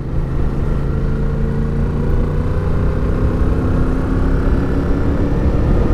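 Suzuki motorcycle engine pulling steadily uphill, its pitch climbing slowly as it gains revs, over low wind rumble on the rider's microphone.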